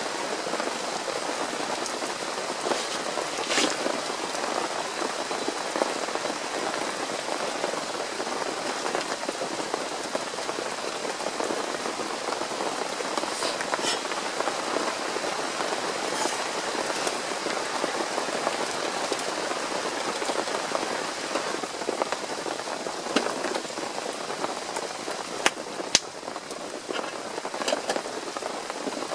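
Steady rain falling, an even patter throughout, with a few sharp clicks, one about three and a half seconds in and two close together near the end.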